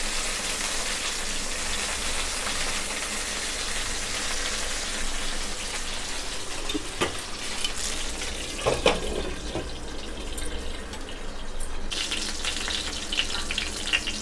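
Green bell pepper pieces sizzling steadily in hot oil in a nonstick frying pan, with a few light clicks in the second half.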